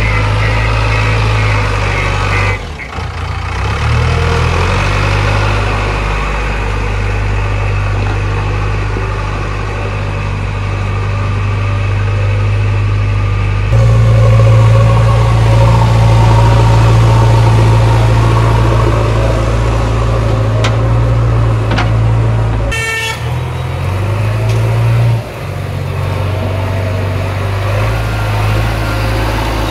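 Heavy diesel engines of a tractor and a backhoe loader running steadily, a low drone. The drone shifts abruptly in pitch and loudness a few times.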